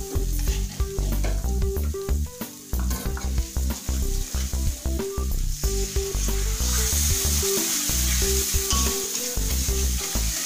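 Chili spice paste frying in an aluminium wok, sizzling while a metal spatula stirs and scrapes it. About six seconds in, a little water is poured in and the sizzling turns into a louder, steadier hiss. Background music plays underneath.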